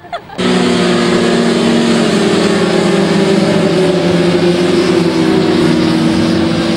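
Motorcycle engine running loudly at a steady speed, starting abruptly about half a second in.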